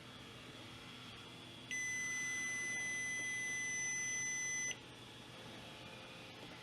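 A steady, high electronic beep held for about three seconds, starting about two seconds in and cutting off sharply, over a faint background hiss.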